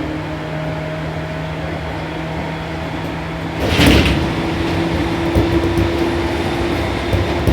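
Seibu New 2000 series electric train running between stations, heard from inside the car: a steady motor hum of several held tones over rail and running noise. A little past halfway a brief loud rush of noise cuts in, after which the hum sounds slightly stronger.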